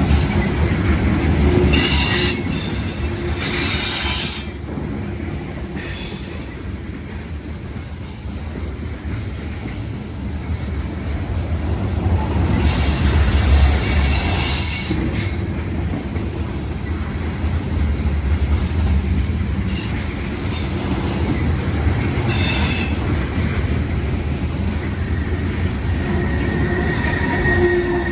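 Freight cars of a CSX mixed freight train rolling past with a continuous low rumble of steel wheels on rail. Several high-pitched wheel squeals rise over it at intervals, each lasting a second or few, the strongest about halfway through.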